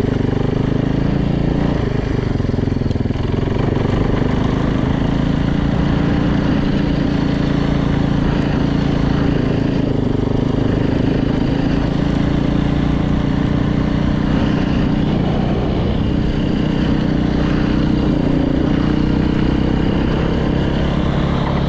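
Yamaha YZ450F's freshly rebuilt single-cylinder four-stroke engine running steadily while the bike is ridden at low, even speed, with only slight rises and dips in pitch.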